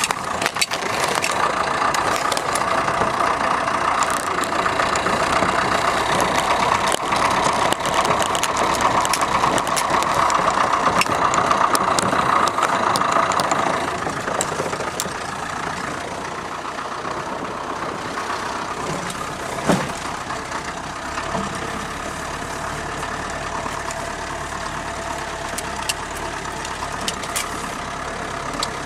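Land Rover engine running as it drives slowly along a bumpy dirt track, with the body rattling and clicking. The engine is louder for the first half and drops lower at about the halfway point, and there is one sharp knock about two-thirds of the way through.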